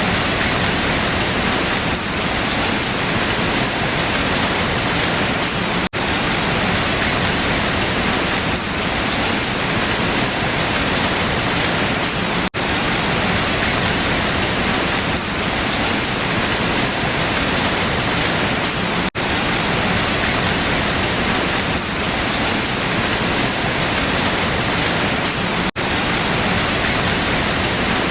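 Steady rain falling on leaves, an even, unbroken hiss, with a split-second dropout about every six and a half seconds where the short recording loops.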